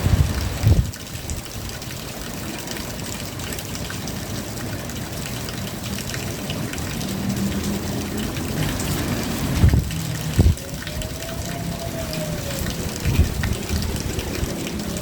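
Rain falling steadily, with water running and splashing. Several short low thumps come near the start and again around ten and thirteen seconds in, and a faint wavering tone rises and falls through the last few seconds.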